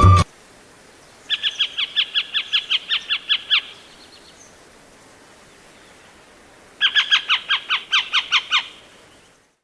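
Pied harrier calling: two bursts of rapid chattering notes, about six a second, each a short, sharply falling yelp. The first burst comes about a second in, the second a few seconds later.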